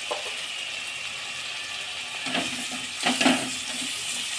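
Garlic paste, onions and fish sizzling in hot mustard oil in a metal kadai, a steady frying hiss. In the second half a spatula stirs the mixture with a few louder scraping strokes against the pan.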